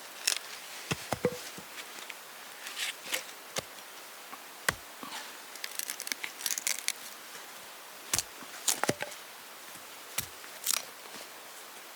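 Hands-on food-prep handling: irregular sharp clicks, light knocks and short rustling or crinkling spells, with a firmer knock about five seconds in and two more near eight and nine seconds.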